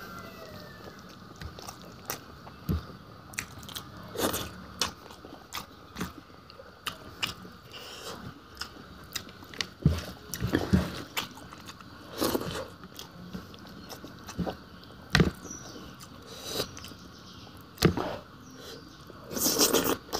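A person eating fish boiled with bamboo shoots: irregular crunches, bites and wet chewing smacks, about one or two a second, with a louder cluster near the end.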